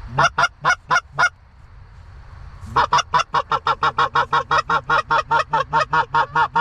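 Goose honking: five loud honks in the first second or so, then after a short pause a fast, evenly spaced run of honks, about five a second.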